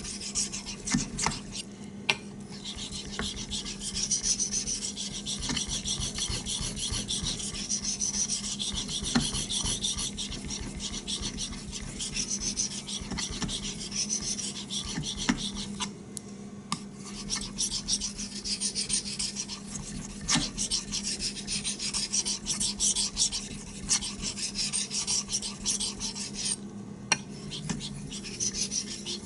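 Steel knife blade of CPM-3V stroked back and forth over a Chosera 3000-grit waterstone, a steady rasping scrape with brief pauses about halfway through and near the end. The handle is tilted up to carry the stroke around the blade's belly in the finishing stage of sharpening.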